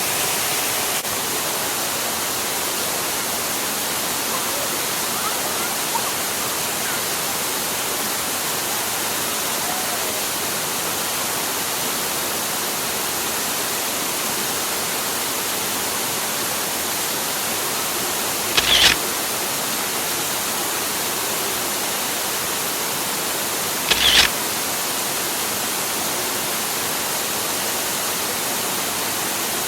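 Steady rush of water from a stream waterfall. Two short, louder hiss-like bursts break through it about five seconds apart in the second half.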